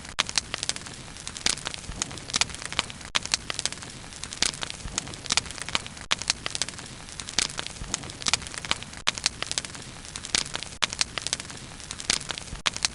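Bonfire of burning wood crackling and popping, with sharp irregular snaps several times a second over a steady hiss of flame.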